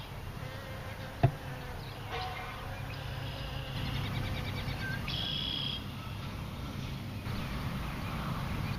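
A flying insect buzzing, with a single sharp click about a second in.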